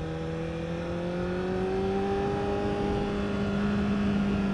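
Honda CBR1000RR's inline-four engine running under way, its note rising slowly and steadily as the bike gently accelerates.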